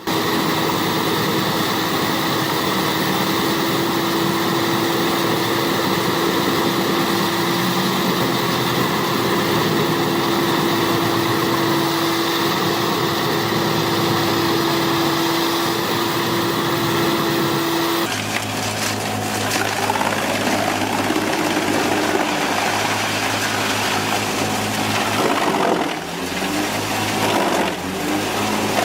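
Large industrial wood chipper running: a steady, high-pitched whine from its spinning cutter over engine noise. About two-thirds through it switches abruptly to a lower machine hum with irregular cracking as wood is torn apart.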